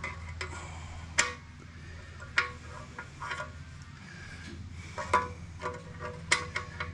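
Hand tools knocking and clinking against the go-kart's metal frame and parts: about six sharp clicks and clanks at uneven intervals, some with a brief metallic ring, over a steady low hum.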